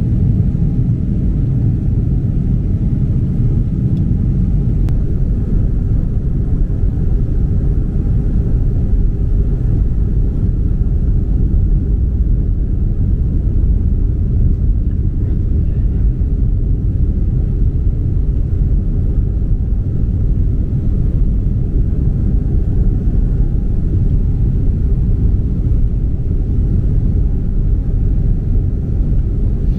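Steady low rumble of cabin noise inside a Boeing 767-300 airliner in flight: engine and airflow noise heard from a window seat, even and unbroken.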